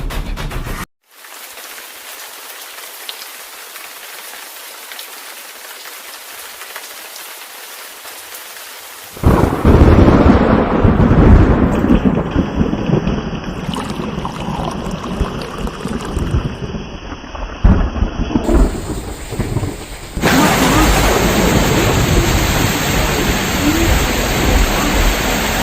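Rain falling steadily, then loud rolling thunder from about nine seconds in, giving way to heavy, even rain near the end.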